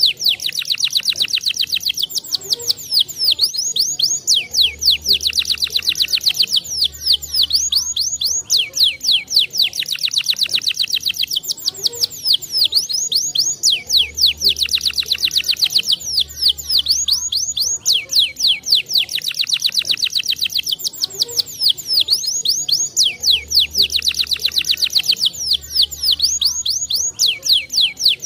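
Canary singing long, very fast high trills with rolling, rattling phrases. The song runs without a break and repeats about every nine seconds.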